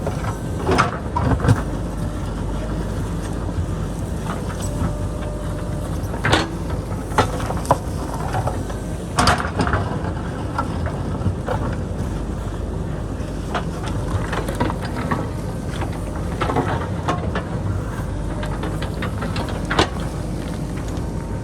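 JCB backhoe loader's diesel engine running steadily under work, with scattered sharp knocks and clatters of the bucket working rock and dirt from the hillside.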